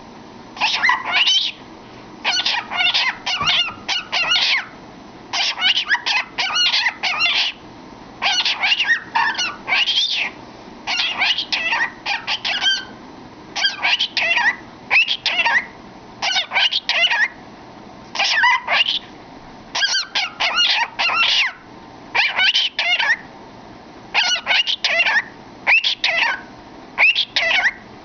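A cockatiel singing and chattering with its head in a cardboard tube: short phrases of warbling whistles and chirps, one after another, with brief pauses between them.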